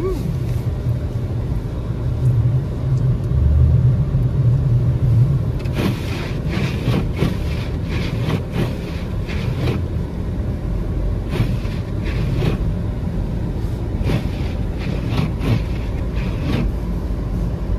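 Car driving on snow-covered roads in a blizzard: a steady low rumble of engine and tyres. From about six seconds in, short hissing sounds come and go over it.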